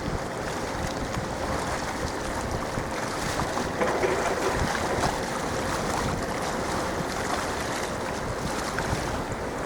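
Wind buffeting the microphone over the wash of harbour waves, with a faint steady hum underneath.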